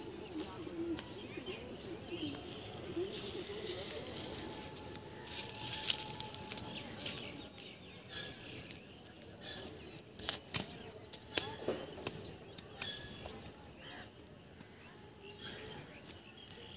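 Birds calling outdoors: short high chirps and a falling whistle that comes back several times, over a soft open-air background.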